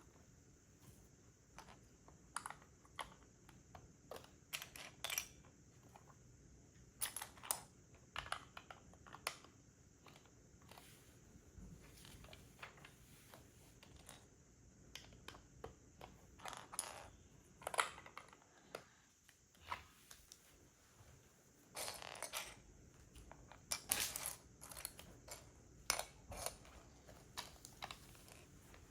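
Small plastic Lego pieces being handled and pressed together: irregular sharp clicks and clacks, spaced a second or so apart, with a few busier clusters.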